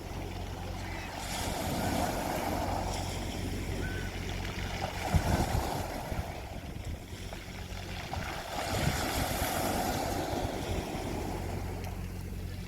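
Sea waves breaking and washing up the shore, the surf swelling about three times, with a steady low hum underneath.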